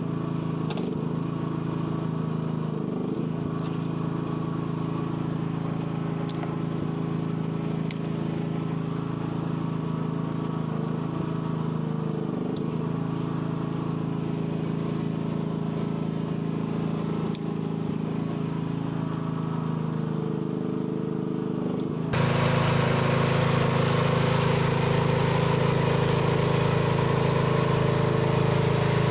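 Mini excavator's small engine running steadily while it works, its pitch dipping briefly now and then under hydraulic load, with a few light clicks and knocks in the first several seconds. About two thirds of the way through the sound changes abruptly and becomes louder.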